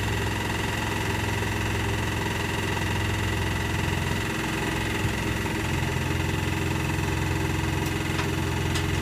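Electrolux W455H commercial washing machine spinning, its drum making a steady mechanical hum with vibration. The low hum dips briefly about halfway through and then comes back. At this point in the cycle it is most likely the final spin.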